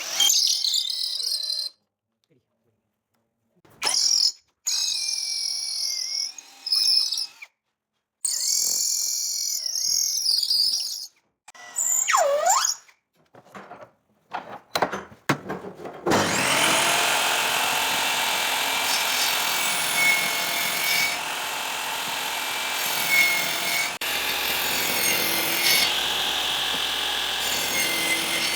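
Power tools working wood. In the first half there are short, cut-up bursts of a motor whine that dips and rises in pitch under load. From about halfway through, one tool runs steadily with a rasping noise.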